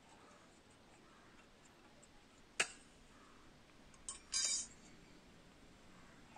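Metal parts being handled: a sharp click, then a small click and a brief rattling clink.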